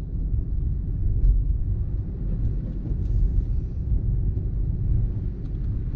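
Steady low rumble of a Chevrolet Equinox driving on a snow-covered road, heard from inside the cabin: road, tyre and engine noise.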